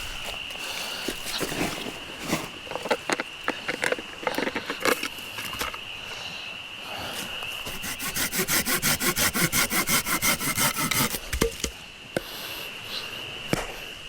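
Scattered knocks and clicks of something being handled, then, about eight seconds in, roughly three seconds of fast, even rasping strokes, about eight a second. A steady high-pitched hum runs underneath throughout.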